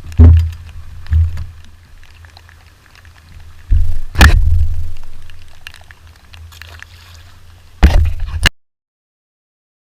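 Water sloshing and splashing, with several loud thumps and a low rumble. The sound cuts off abruptly near the end.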